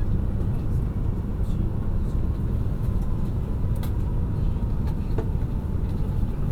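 E5 series Shinkansen heard from inside the passenger cabin: a steady low rumble of the moving train, with a couple of faint clicks.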